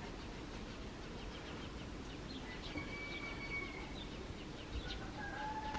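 Birds chirping in the background: short repeated chirps, a held whistled note about halfway through, and a lower held note near the end.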